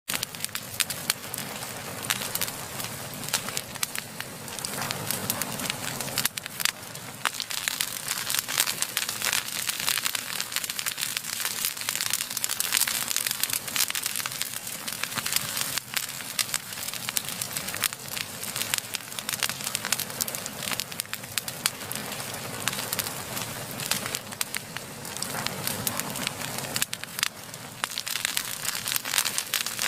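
Wood fire burning with dense, irregular crackling and popping over a steady hiss.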